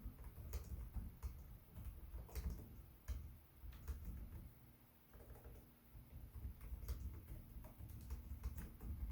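Typing on the keyboard of a Lenovo Legion 5 Pro laptop: quiet, irregular key clicks, with a brief pause about halfway through.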